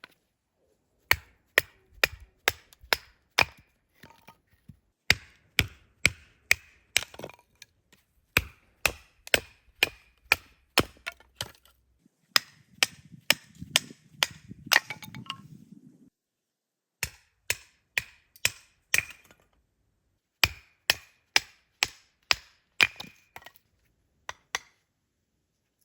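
Repeated hard strikes, about two a second, in runs of four to eight with short pauses between, each with a brief ringing tone. A low rustling or scraping runs under the strikes for a few seconds about halfway through.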